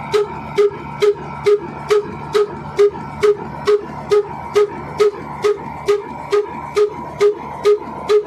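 Old Ruston diesel engine running steadily, with an even, sharp exhaust beat about two and a half times a second over a steady hum.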